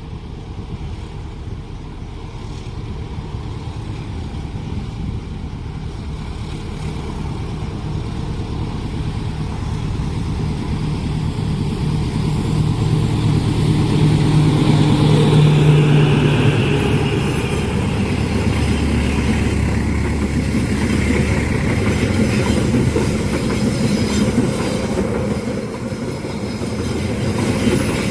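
A diesel-hauled train approaching and passing. The locomotive's engine drone grows louder to a peak about halfway through, then the carriages roll past with a steady rumble and wheel noise.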